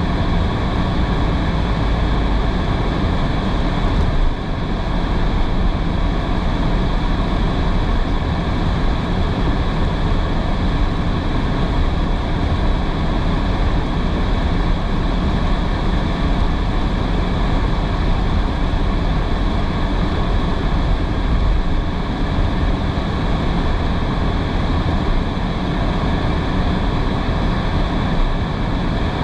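A car driving on wet roads in heavy rain: a steady rush of tyre and rain noise over a deep rumble.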